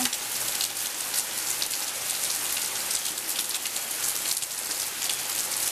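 Steady rain falling and pattering on surfaces, a dense crackle of many drops.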